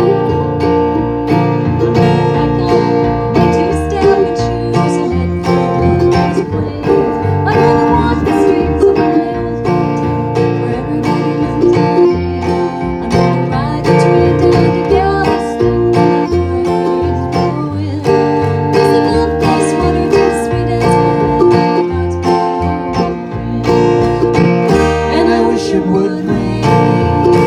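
Acoustic string band playing a country-bluegrass song, with plucked strings carrying it along.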